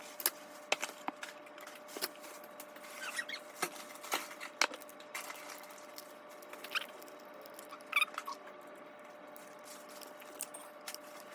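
Small plastic pieces of a Popin' Cookin' DIY candy kit being handled on a tabletop: scattered light clicks and taps, with a couple of short squeaks about seven and eight seconds in, over a faint steady hum.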